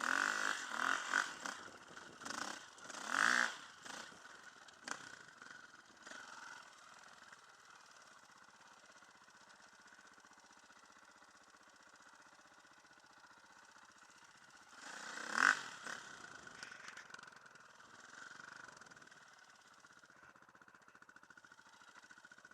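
Enduro dirt bike engines revving in several short bursts in the first few seconds and again about two-thirds of the way through. Between the bursts the engines run quietly and steadily.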